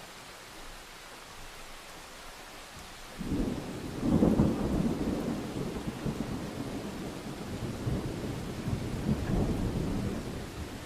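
Steady rain hiss, then a roll of thunder that breaks in suddenly about three seconds in, is loudest a second later, and rumbles on in swells for several seconds before fading near the end.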